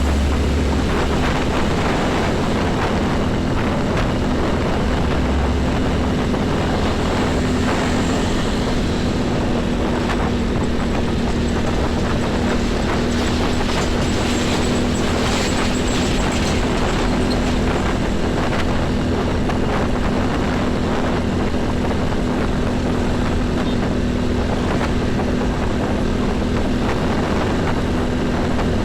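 Heavy highway traffic with trucks and buses going by, a continuous mix of diesel engines and tyre noise. A steady low hum runs under it, and there is a heavier low rumble in the first couple of seconds and again around five seconds in.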